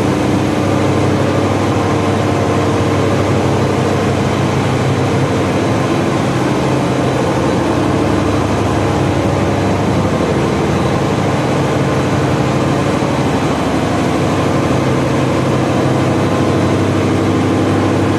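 MWM TCG 2020 V12 gas engine running steadily at constant speed, a loud even drone with a deep hum.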